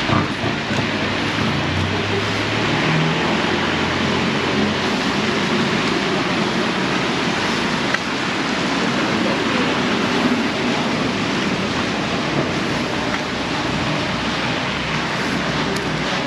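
Heavy tropical rain pouring down in a steady, loud hiss. A low hum sits under it for the first few seconds.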